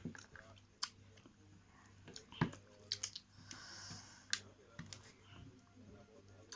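Someone eating rice and curry close to the microphone: scattered sharp, wet lip smacks and chewing clicks, with a brief soft hiss about halfway through.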